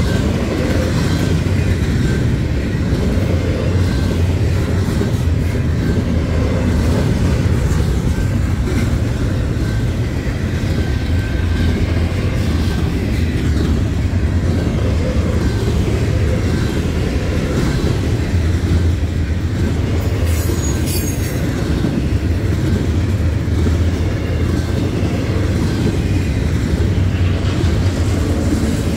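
Double-stack intermodal freight cars rolling past, with a steady rumble of steel wheels on the rails.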